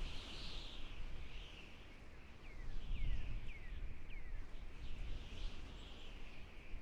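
Birds calling: a steady background of birdsong, with four short down-slurred notes one after another in the middle, over a low rumble.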